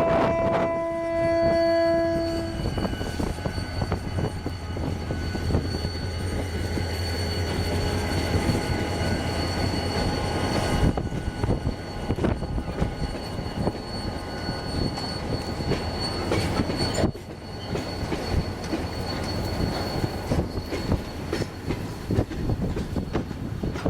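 A General Motors GT22CW diesel locomotive sounds its horn, with a blast ending just after the start and a second one ending about two and a half seconds in, its engine droning as it comes by. Then a long freight train rolls past, the wheels clattering over rail joints with a steady high wheel squeal.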